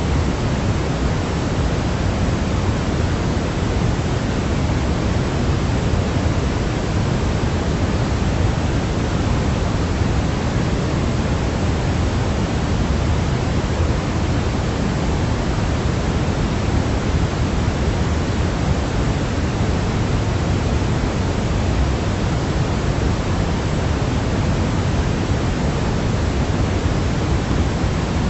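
Steady, unchanging hiss of white noise played as a baby sleep sound, heavier in the low end than in the treble.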